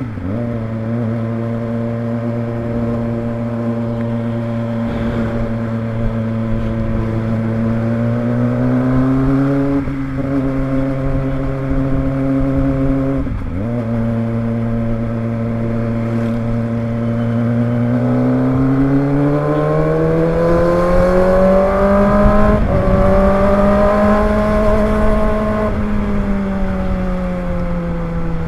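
Kawasaki ZX25R motorcycle's 250 cc inline-four engine running under way at a steady pitch, with two brief breaks in the note, then revving up for several seconds from about two-thirds of the way in and easing off near the end.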